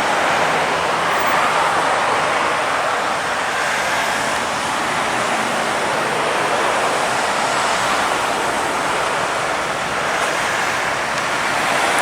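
Steady road traffic noise: tyre and engine noise of vehicles passing on the highway, a continuous rushing sound without distinct beats.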